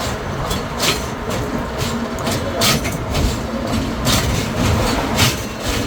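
Tourist road train running: a steady low rumble with irregular knocks and rattles, about one every half second to a second.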